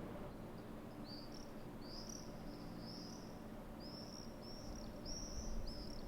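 A bird calling again and again: a run of short, high chirps that each rise and fall, over a low steady background rumble.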